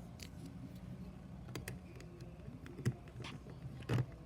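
Plastic LEGO pieces clicking and knocking as they are handled and fitted onto a LEGO car model: a few scattered clicks, the loudest near the end.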